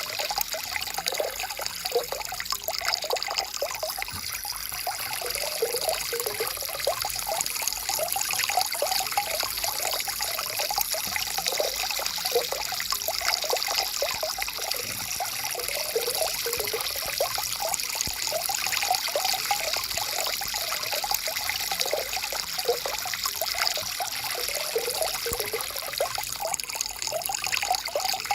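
Stream water flowing and trickling steadily over stones, with a constant rushing hiss and small gurgles.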